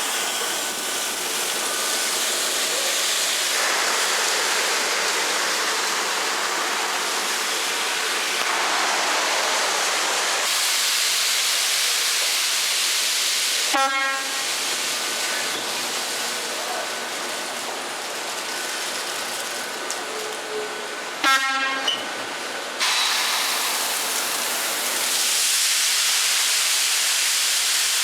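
Steady rushing noise of peanut-loading machinery, with two short horn blasts about halfway through and again some seconds later: the signal for the truck being loaded to pull forward.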